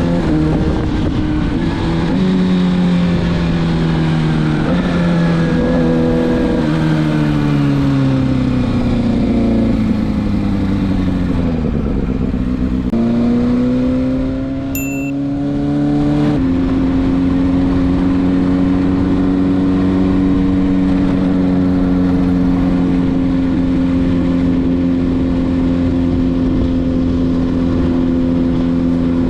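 Kawasaki ZX-6R inline-four engine through a Leo Vince SBK titanium exhaust, accelerating through several quick upshifts, each rise in revs ending in a drop. It then slows with the revs falling for several seconds, picks up again around the middle, and settles to a steady cruise for the rest.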